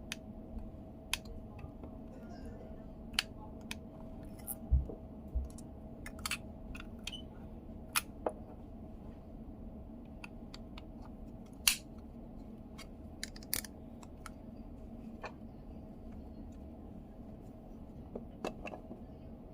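Irregular sharp clicks and taps of small parts and tools being handled while taking apart and putting back together a car's multimedia control knob, over a steady faint hum.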